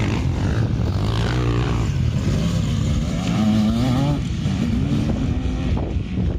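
Several motocross bikes' engines running at high revs on the track, their notes overlapping, with one revving up sharply about three seconds in and then easing off.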